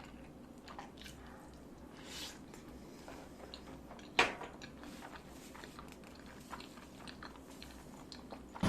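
Close-miked eating sounds: a person biting and chewing, with small scattered clicks and crunches and one sharper click about four seconds in.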